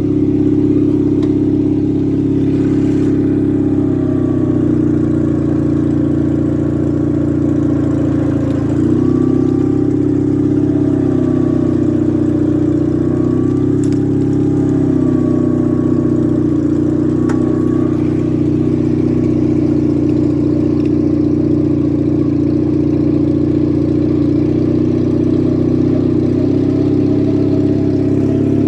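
The engine of a 1971 Gravely 450 tractor running steadily at idle or just over, with a small change in speed about nine seconds in.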